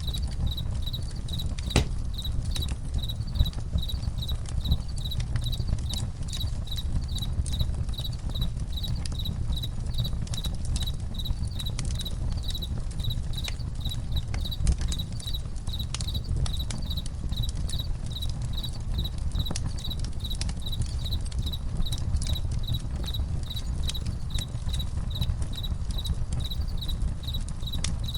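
Crickets chirping in an even pulse of about two chirps a second over a crackling campfire with scattered sharp pops and a steady low rumble.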